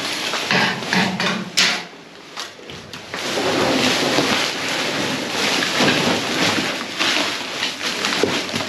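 Packaging being handled and pulled open, with continuous rustling and crinkling and a sharp knock about one and a half seconds in.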